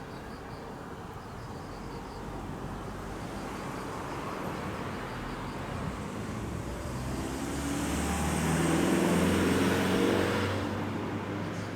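A passing vehicle's engine, building over several seconds to a peak and then falling away sharply near the end.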